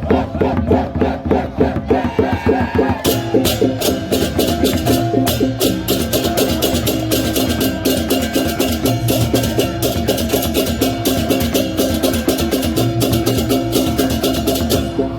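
Balinese baleganjur gamelan playing: fast, driving percussion with rapid cymbal clashes over steady ringing gong and metallophone tones.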